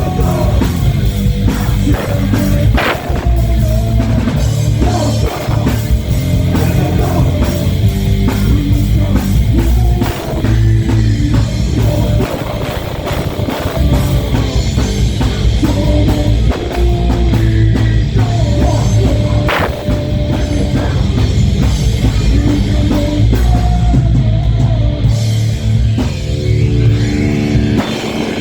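A heavy metal band playing live, with a pounding drum kit and electric guitars.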